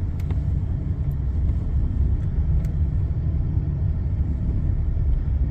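2018 Ford F-150's 3.5 EcoBoost twin-turbo V6 idling steadily through an AWE 0FG exhaust with a 3-inch Borla resonator, a deep, even sound with no revving.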